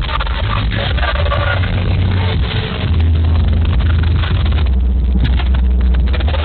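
Cars running with a heavy, steady low rumble.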